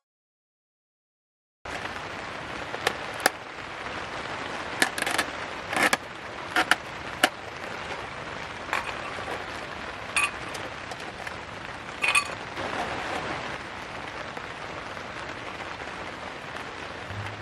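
Heavy rain falling steadily on a tent, starting abruptly just under two seconds in, with occasional sharper taps.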